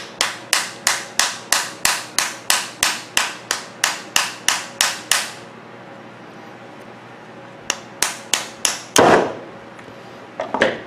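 Small hammer rapidly tapping to knock a metal part out of a microwave magnetron cooling fan's motor housing, about four strikes a second for some five seconds. After a pause comes a second short run of taps, then a louder clatter about nine seconds in as the part comes free.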